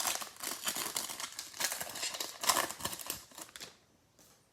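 Foil trading-card pack wrapper crinkling as it is handled and torn open by hand, a dense irregular crackle that stops near the end.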